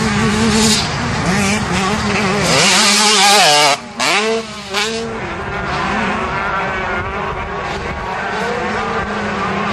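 125cc two-stroke motocross bike engines revving hard, pitch rising and falling with throttle and gear changes. About four seconds in the revs drop sharply, then climb again.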